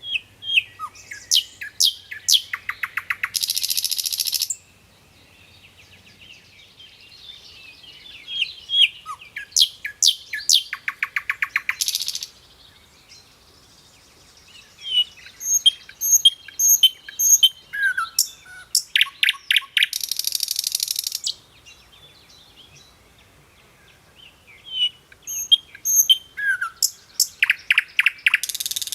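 A songbird singing the same song four times, with pauses of a few seconds between. Each song is a run of sharp chirps, then a fast trill, ending in a harsh buzz.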